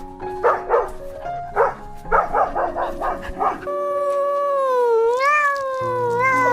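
A run of short sharp yaps, then a cat's long drawn-out meow that wavers and dips in pitch for about three seconds, over background music.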